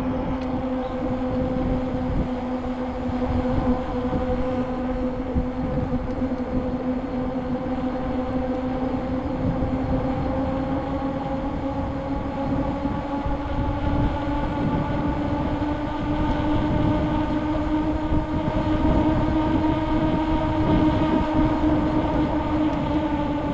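A bicycle's rolling hum while riding: one steady humming tone with overtones that climbs slowly in pitch as the speed builds, over a low rumbling noise.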